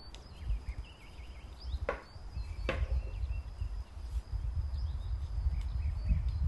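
Songbirds chirping and calling in short, scattered notes over a steady high thin tone, with a low rumble underneath. Two sharp clicks come close together about two seconds in.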